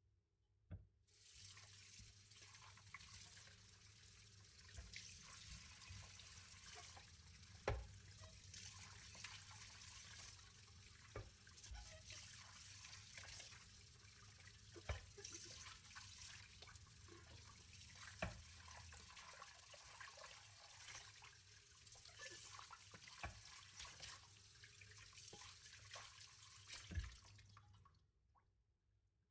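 Kitchen tap running into a sink during dishwashing. It is turned on about a second in and shut off near the end, with a few sharp knocks of dishes in the sink.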